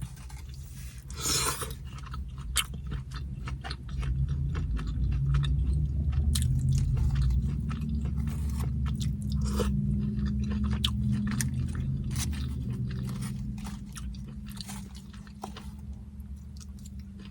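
Close-miked chewing and crunching of tortilla chips loaded with carne asada, with many sharp crunches. A low rumble with a faint steady tone runs underneath through the middle and is the loudest part.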